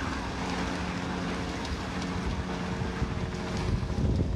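Steady engine drone under a low rumble, with wind buffeting the microphone and a louder gust near the end.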